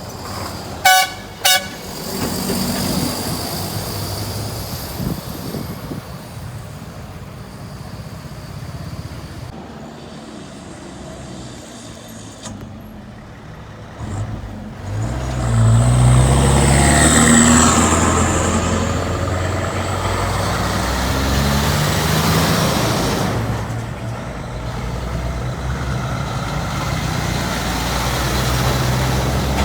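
Two short truck horn blasts, then heavy trucks running along the road; one passes close with its diesel engine labouring, loudest from about 15 to 23 seconds in.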